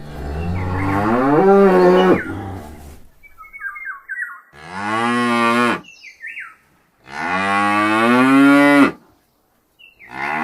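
Cow mooing: three long moos, the first about three seconds long and the others shorter, with a fourth starting right at the end.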